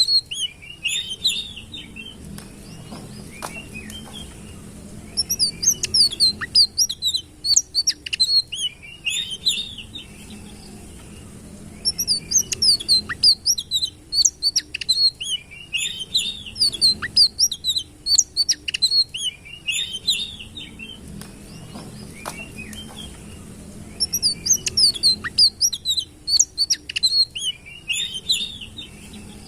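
Songbird known in Indonesia as the sitrun, singing a rapid, high twittering song of quick chirps and trills in bouts several seconds long, broken by short pauses.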